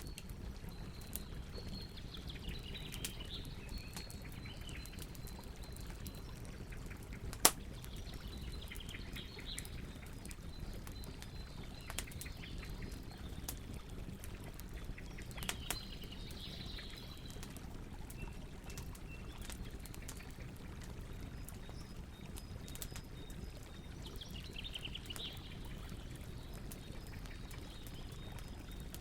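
Campfire crackling, with scattered small pops and one loud snap about seven and a half seconds in, over a low steady rush. Birds sing in short bursts at intervals behind the fire.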